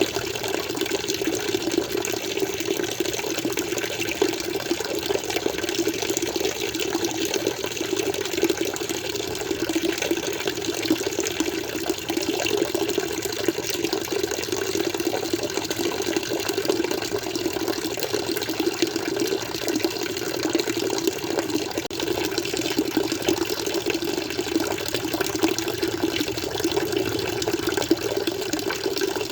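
Flowing water: a steady, unbroken rush of running water with no pauses or changes.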